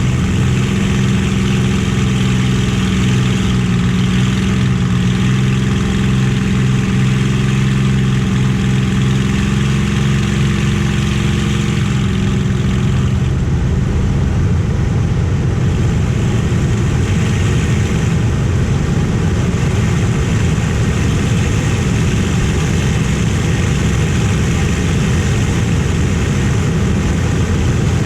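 Rolls-Royce/Packard Merlin V12 engine of a WWII fighter running steadily at constant power: a loud, even drone with no fly-by rise and fall, its engine tone clear at first and rougher after about twelve seconds.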